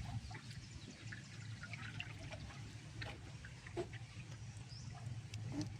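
Floodwater trickling and splashing, with scattered small splashes and drips, over a low steady hum.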